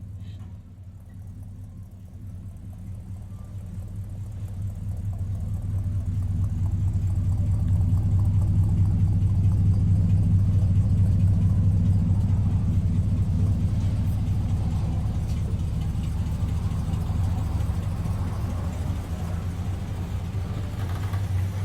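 1968 Chrysler 300's V8 running through its new complete exhaust system: a steady, low exhaust rumble that grows louder over the first several seconds, then holds.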